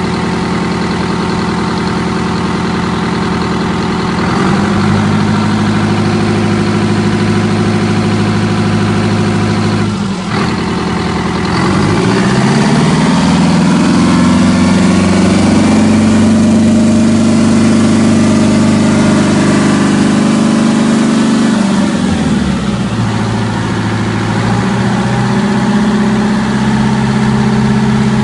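Detroit Diesel Series 71 two-stroke diesel running during its break-in after a major overhaul, its speed changed in steps. It steps up about four seconds in and dips briefly near ten seconds. It then climbs to a higher steady speed held for about eight seconds, drops back, and steps up slightly near the end.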